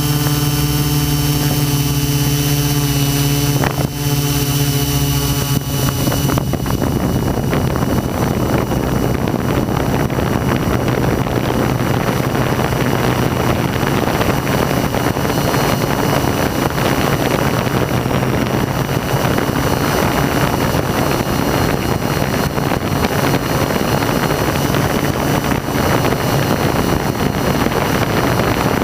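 Hexacopter drone's electric motors and propellers heard from the onboard microphone, a steady whine of even tones for about six seconds, then giving way to a loud, even rushing noise as the craft flies.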